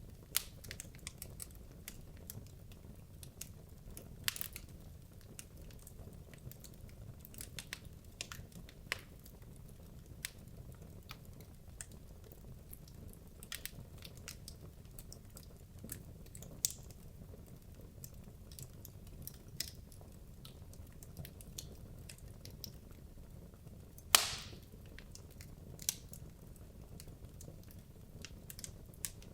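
Wood logs burning in a fireplace: a low steady rumble of the flames with irregular sharp crackles and pops, the loudest pop about 24 seconds in.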